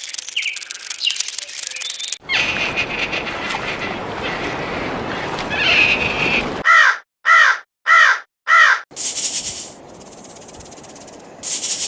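A bird calling loudly four times in quick succession, short calls about two-thirds of a second apart, after a stretch of steady hiss-like noise.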